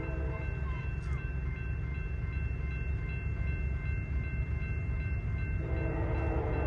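Diesel freight train rumbling steadily as it runs by; a locomotive horn starts sounding about five and a half seconds in.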